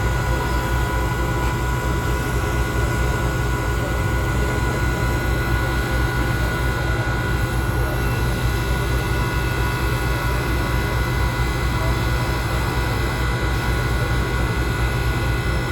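An engine running steadily: a constant low drone with a steady whine above it that never changes.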